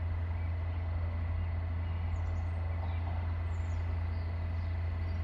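Freight train approaching, heard as a steady low rumble, with a few birds chirping briefly about two to four seconds in.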